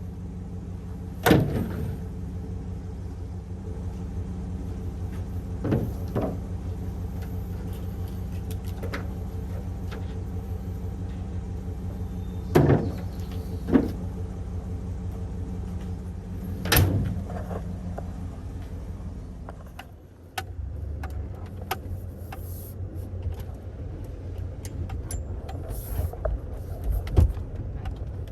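A vehicle engine running steadily under way, with several sharp clunks and knocks. About twenty seconds in, the engine note drops and changes, and lighter clicks and rattles follow.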